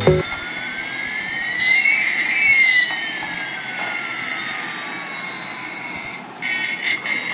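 Electronic jet-engine sound effect, like the one a toy airliner plays: a steady hiss with two whistling tones, one rising and one falling, that cross about two seconds in. Near the end a choppier, stuttering electronic sound sets in.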